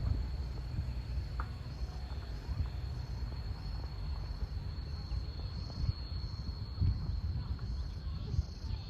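A steady, high-pitched insect trill that holds one unbroken tone, heard over a low rumble.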